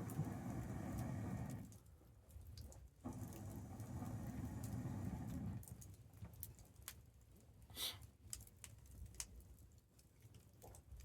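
Wood fire burning, with scattered sharp crackles and pops. Two stretches of low rushing noise run through the first half, one at the start and one from about three seconds to past the middle.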